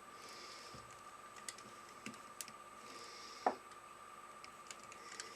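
Faint scattered clicks and light taps of small handwork with hand tools and parts, one sharper click about three and a half seconds in, over a faint steady whine.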